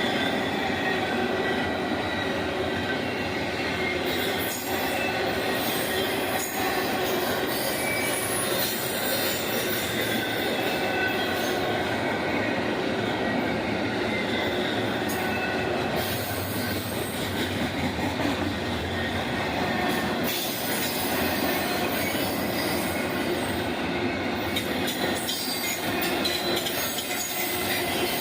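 Railroad cars rolling steadily past on the track, with wheels squealing in several thin high tones over the rumble and scattered rail clicks.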